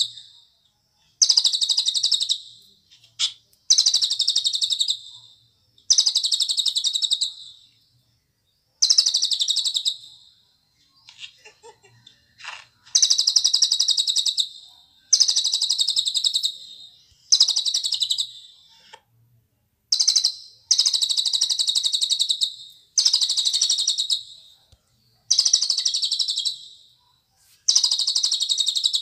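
Cililin bird singing: a run of high, fast-trilled phrases, each about a second long, repeated every couple of seconds with short pauses between them.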